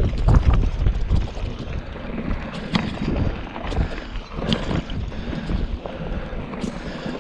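Wind buffeting the microphone in uneven gusts of low rumble, with a few scattered sharp clicks.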